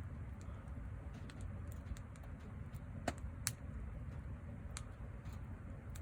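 Wood fire crackling in a handmade fire pit: irregular small pops and snaps over a low steady rumble, with two sharper pops about halfway through.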